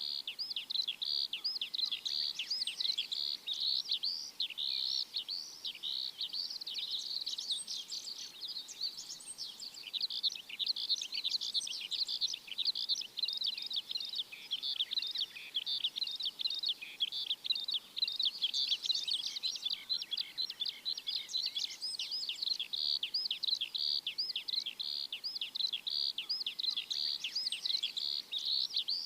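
A flock of small birds chirping together in a dense, continuous chorus of short, high chirps, many overlapping at once.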